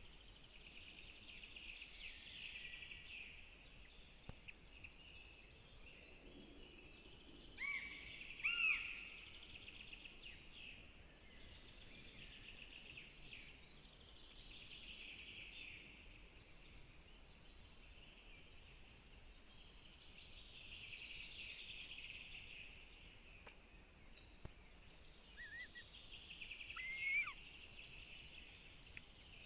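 Wild birds singing in the background in phrases repeated every few seconds, with a few louder, short whistled calls that sweep up and drop, a pair about a third of the way in and more near the end.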